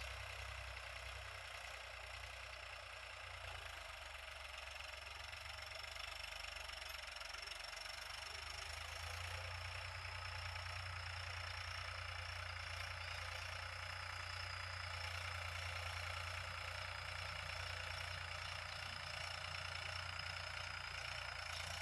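Tractor diesel engine running steadily, heard faintly as a low hum under an even hiss; the hum grows a little louder about nine seconds in.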